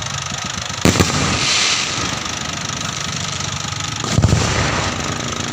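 Two aerial firework shells bursting, one about a second in and another about four seconds in: each a sharp bang that trails off, the first followed by a crackling hiss.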